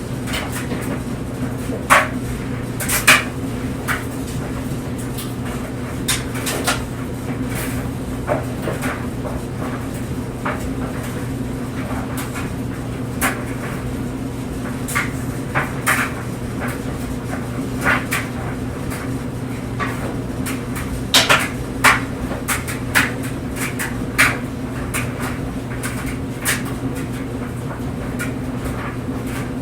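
Clothes dryer running with a steady motor hum while the load tumbles in the drum, giving irregular knocks and clicks, a few louder thumps among them.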